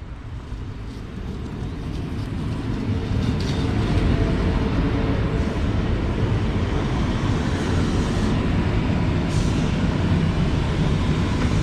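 A train growing louder as it approaches over the first few seconds, then a steady loud rumble of wheels on rails as it runs past close by, with a few brief high squeals.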